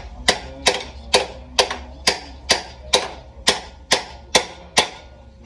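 A hammer striking metal in a steady rhythm of about two blows a second, each blow ringing briefly.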